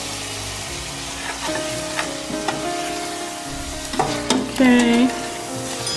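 Chicken pieces with onion and spices sizzling as they fry in oil in a metal pot, stirred, with a few sharp clicks of the spoon against the pot.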